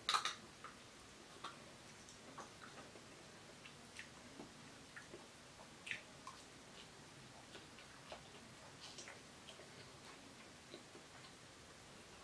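Faint, irregular clicks and taps of someone eating fried noodles: a utensil tapping and scraping against the dish, with mouth sounds, and a louder click right at the start.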